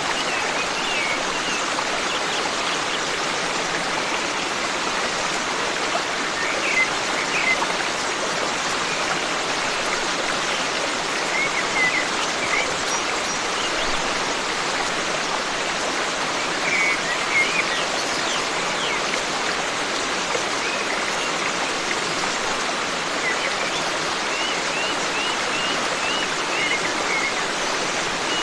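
Forest stream running steadily, with short bird chirps over it now and then, and a quick series of chirps near the end.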